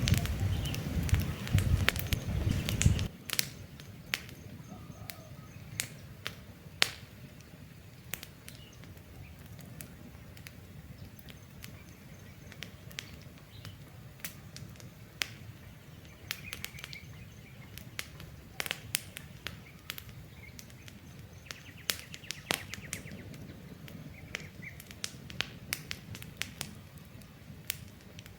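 Wood campfire crackling, with sharp irregular pops and snaps, over a low rumble that is loudest for the first three seconds and then drops away. Birds chirp faintly now and then.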